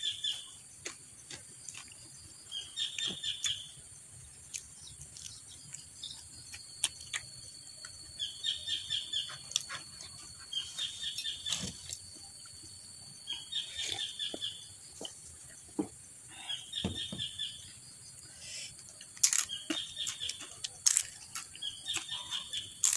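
A bird calls the same short, high phrase over and over, every two to three seconds, over a steady high hiss. Close-up eating sounds run through it: chewing clicks, and sharper crunches of a crisp fried cracker near the end.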